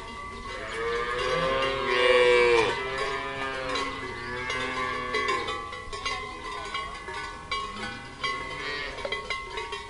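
A cow mooing: one long, drawn-out moo in the first few seconds, followed by irregular clanking of cowbells.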